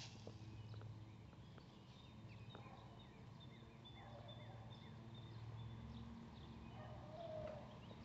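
Faint birds chirping here and there over a low steady hum.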